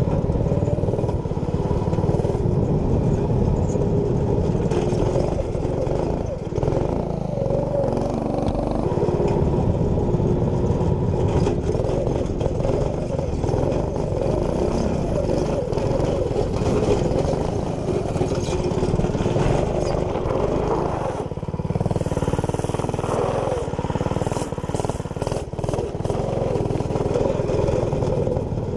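Small 212cc single-cylinder engine with an aftermarket exhaust running under load as the machine is ridden, its pitch rising and falling with the throttle.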